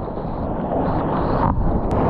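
Wind buffeting the camera microphone: a steady, fairly loud rumble.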